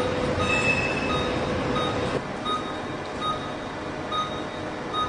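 Operating-room patient monitor beeping steadily, a short high beep a little under once a second, over a constant hiss of theatre equipment. A steady hum sounds along with it for the first two seconds, then stops.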